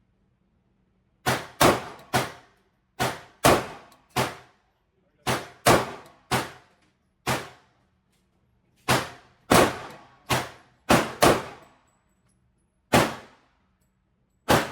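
Pistol shots from a 9mm Glock 45 fired in quick strings of two or three, about seventeen in all, each cracking sharply and ringing off briefly in the indoor range.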